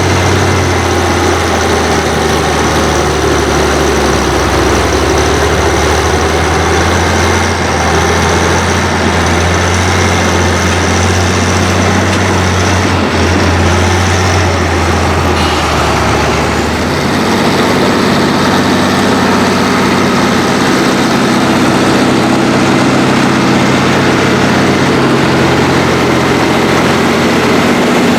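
Heavy diesel tractor engines running hard under load while deep plowing: a loud, steady low drone whose engine note shifts about two-thirds of the way through.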